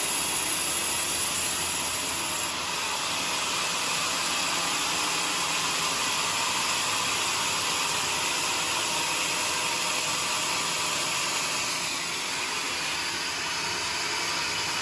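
Sawmill saw cutting steadily through a joar (johar) wood log, giving a continuous noisy hiss with no pauses and a slight change in tone about two and a half seconds in.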